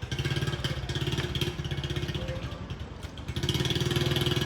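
A restored engine catches and runs with a fast, even beat, picking up speed and getting louder about three seconds in.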